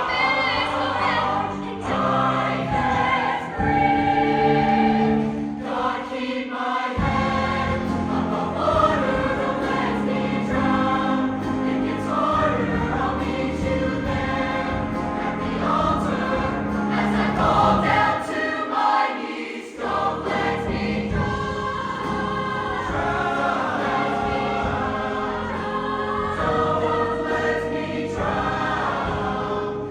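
Show choir singing with band accompaniment, sustained sung chords over low bass notes; the bass drops out briefly twice, near a quarter of the way in and around two-thirds of the way in.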